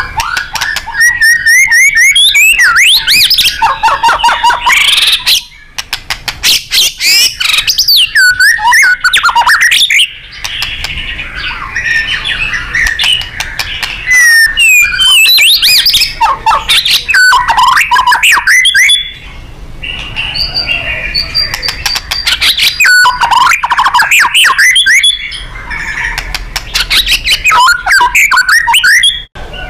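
White-rumped shama (murai batu) singing loud, continuous, varied song: whistled phrases that glide up and down, mixed with fast rapid-fire runs of sharp notes, with short breaks every few seconds.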